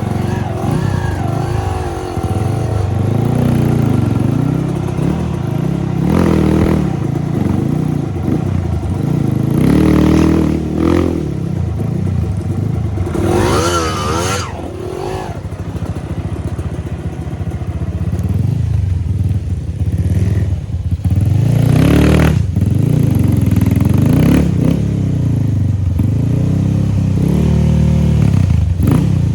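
Dirt bike engine revving up and down over and over as it is ridden over loose small stones, with a few brief clatters and scrapes from the stones.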